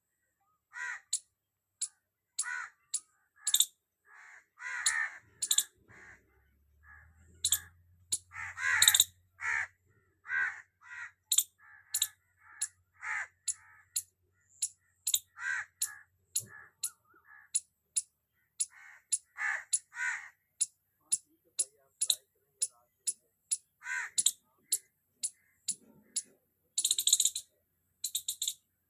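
A squirrel calling loudly: a long series of sharp, short chirps, about one or two a second, mixed with harsher, rasping calls.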